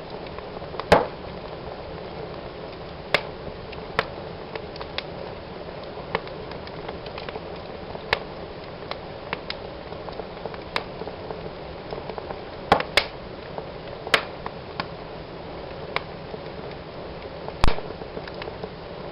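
Wood fire burning in a fireplace: a steady hiss of flames with irregular crackles and sharp pops, a few louder snaps standing out about a second in, around two-thirds of the way through, and near the end.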